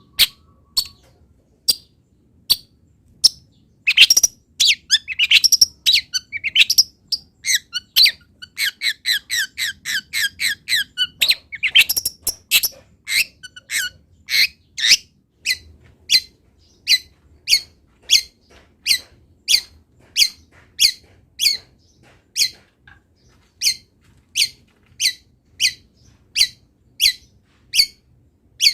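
Long-tailed shrike (cendet) calling loudly: sharp, high notes, with a fast chattering run of notes in the middle, then steady single calls about every second and a half.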